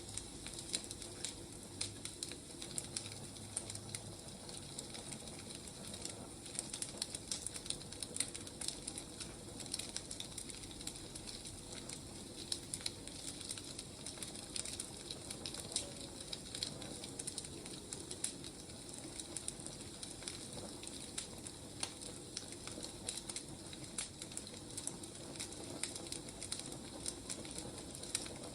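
Firewood burning: steady crackling with frequent sharp snaps and pops over a soft hiss.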